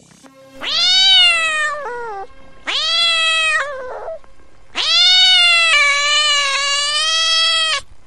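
A cat meowing loudly in three long, drawn-out meows, each rising at the start. The first two end in a short falling note, and the last is held for about three seconds.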